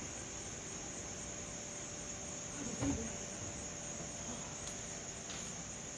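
Crickets chirring in one steady high-pitched drone, with a soft knock just before three seconds in.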